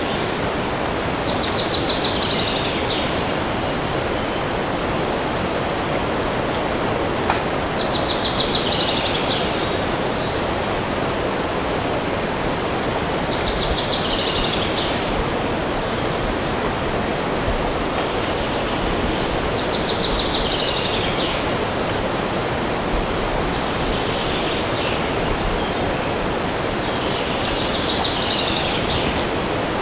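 A steady rushing of wind in the forest, over which a songbird sings the same short, falling trill six times, about every six seconds.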